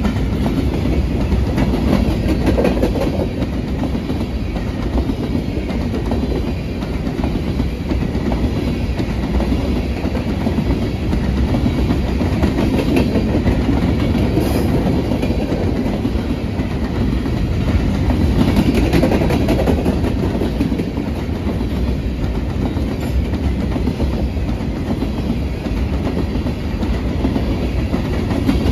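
Freight train of covered hopper cars rolling past, steel wheels clattering over the rail joints over a steady rumble.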